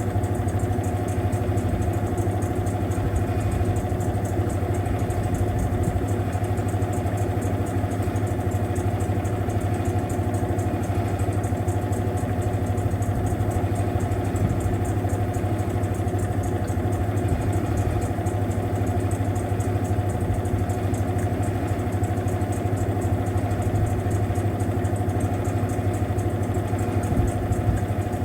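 Mueller Popmatic 8 kg washing machine running steadily near the end of its cycle, its motor humming without pause, as in the final spin.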